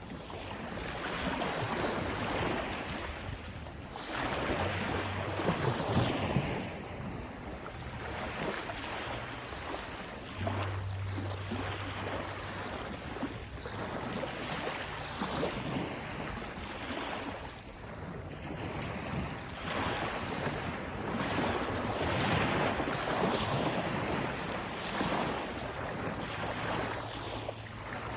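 Sea waves surging and washing in, swelling and ebbing every few seconds, with wind buffeting the microphone.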